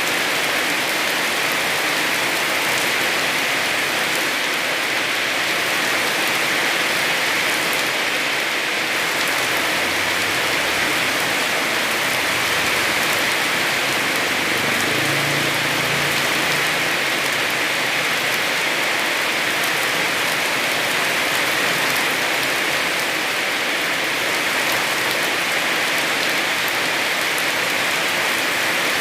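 Heavy rain falling steadily, an even rushing hiss with no breaks or changes in strength.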